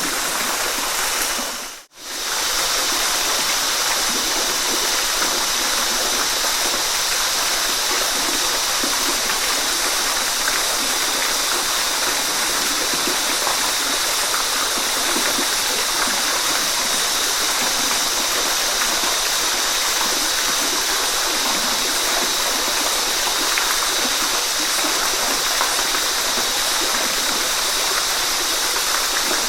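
Waterfall rushing steadily, a continuous hiss of falling water. About two seconds in it fades out briefly and comes straight back, like the seam of a looped recording.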